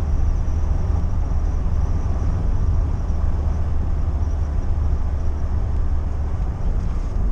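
Ford Ranger pickup truck driving, a steady low rumble of engine and road noise at an even pace.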